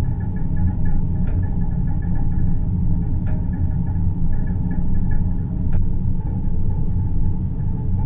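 Deep-space ambience: a steady low rumbling drone with a faint, flickering higher tone above it and a few soft clicks.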